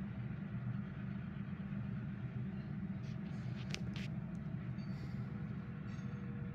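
Union Railroad coke hopper cars moving slowly along a steel trestle: a steady low rumble, with a few sharp metallic clicks about three to four seconds in.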